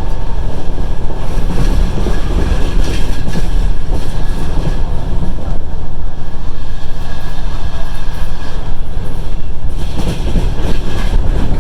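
Passenger train running at speed, heard from aboard: a steady low rumble of the wheels on the rails, with the clatter of the wheels over the rail joints.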